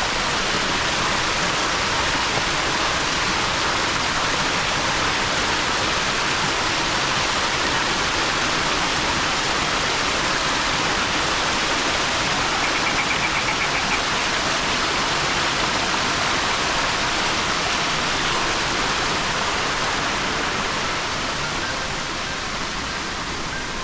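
Steady loud rush of falling water from a waterfall, an even hiss without pauses that eases slightly near the end.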